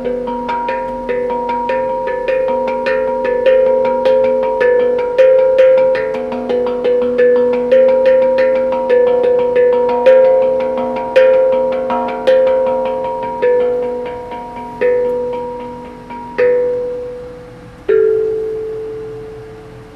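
Pitched percussion struck in a quick run of ringing notes that slows down, with the strikes spreading out toward the end and closing on one long ringing note.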